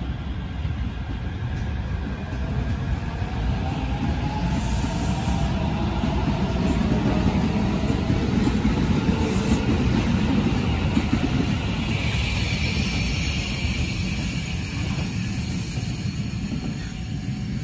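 Shin-Keisei 8900-series electric train pulling out of the station: its traction motors give a rising whine as it speeds up past the platform, over a heavy rumble of wheels on rail that is loudest about halfway through and then fades, with a high hiss in the latter part.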